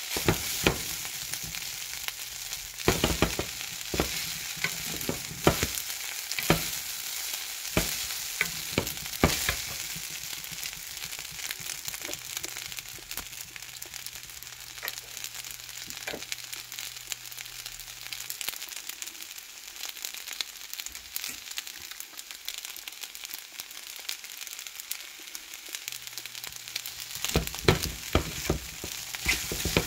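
Shrimp and mixed-vegetable fried rice sizzling steadily in a pan. A wooden spoon stirs and scrapes through it in bursts of clicks during the first ten seconds or so and again near the end, with calmer sizzling in between.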